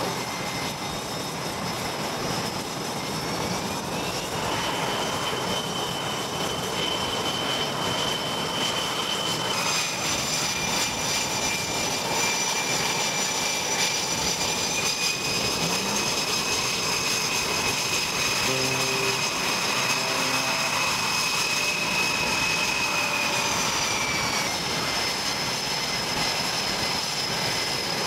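Aircraft engines running with a steady rushing noise and a high whine. The whine rises in pitch about three seconds in, steps up again near ten seconds and falls back around twenty-four seconds.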